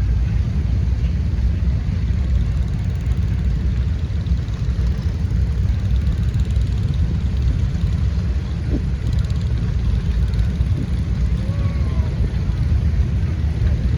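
Steady low rumble of parade engines running as they pass.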